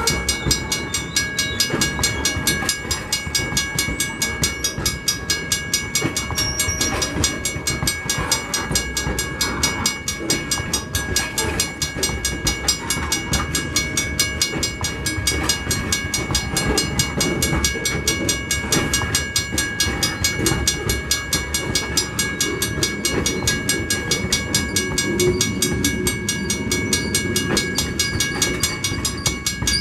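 Loaded wood-chip hopper cars of a freight train rolling past at close range: a steady rumble of wheels on rail with a quick, regular clickety-clack of wheels over the joints and a steady high-pitched ring over it.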